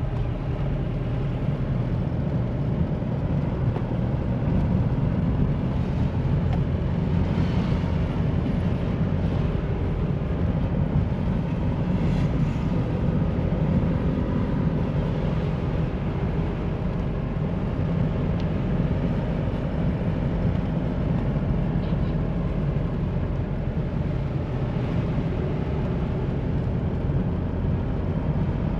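2013 Mahindra Bolero SUV being driven: its engine and tyre/road noise make a steady low rumble with no sharp changes.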